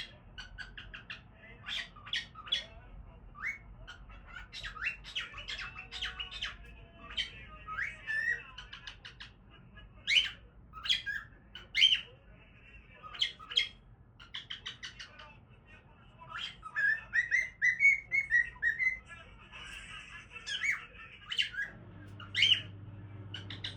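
Cockatiel calling: a string of short, sharp chirps and squawks, with a quick warbling run of notes about two-thirds of the way through.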